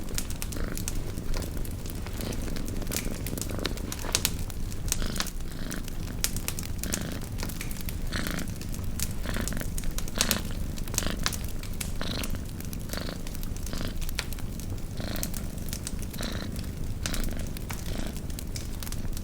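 Domestic cat purring steadily, with a campfire crackling and popping in sharp, irregular snaps over it.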